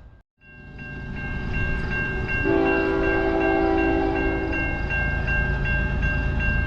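Railway level-crossing bell dinging about three times a second over the low rumble of a train. A single train horn blast of several chime tones starts about two and a half seconds in and lasts a little over two seconds.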